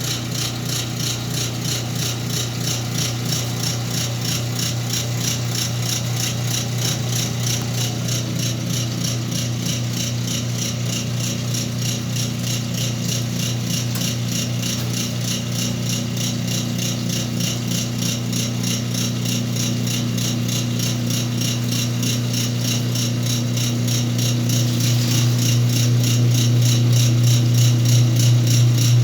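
Whirlpool washing machine running with blankets inside: a steady motor hum under a fast, even rattling rhythm, growing gradually louder over the last several seconds.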